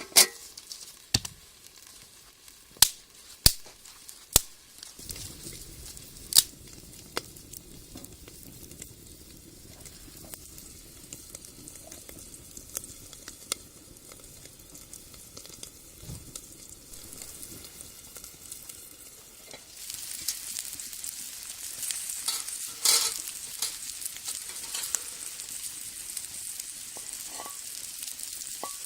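Food sizzling and frying in a steel Beijing wok over a wood fire. Several sharp clicks come in the first few seconds, and the sizzle grows louder and brighter about twenty seconds in.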